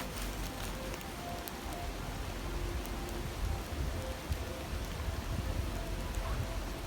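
Steady rushing of a river, with a few faint crackles from a wood campfire.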